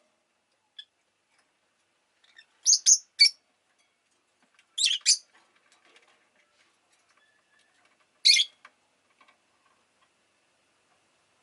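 Rosy-faced lovebird giving short, sharp, high-pitched chirps in scattered bursts: three quick calls about a quarter of the way in, two about halfway, and a single one near the three-quarter mark, with quiet gaps between.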